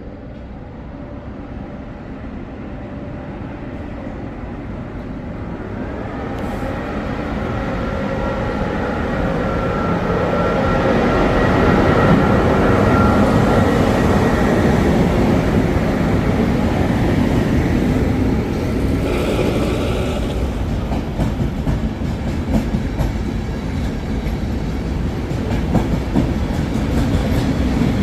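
Passenger train approaching and running past, growing louder over the first dozen seconds, then a steady rumble of wheels on the track with clickety-clack over rail joints. A steady high whine is heard for several seconds in the middle.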